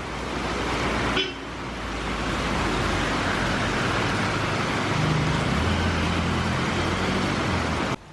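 Road traffic noise, with a vehicle engine's low hum coming in about five seconds in.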